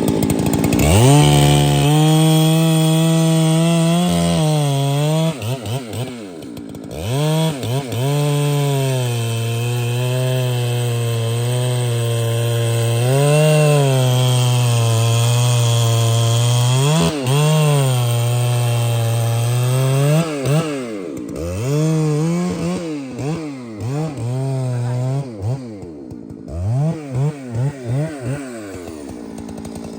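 Large two-stroke chainsaw cutting at full throttle, its engine note dropping off and picking back up several times. Over the last several seconds it is revved in quick, short bursts.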